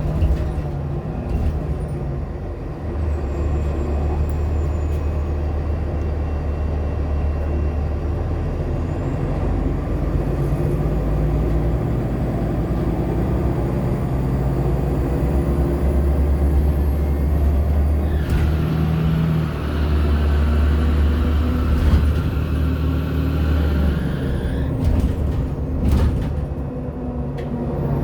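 Interior of a 2014 Nova LFSA hybrid bus (Cummins ISL9 diesel with Allison H40 EP hybrid drive) running, a steady low drone. Past the middle, a hiss lasts several seconds, and a few knocks come near the end.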